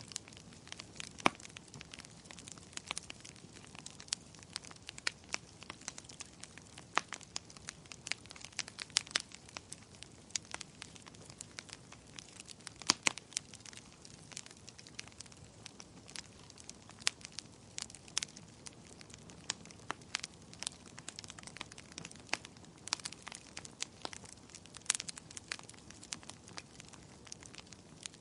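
Fire in a fireplace crackling: irregular sharp pops and snaps, several a second, over a soft steady hiss.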